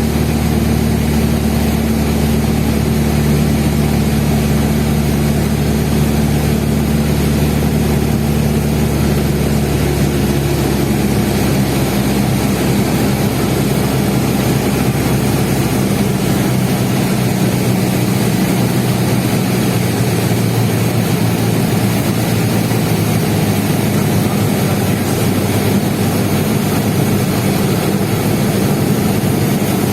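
Cessna 172N's four-cylinder Lycoming engine and propeller running steadily during the approach, a constant drone with a hiss of airflow over it. The engine note changes about a third of the way in, and its deepest hum fades about halfway through.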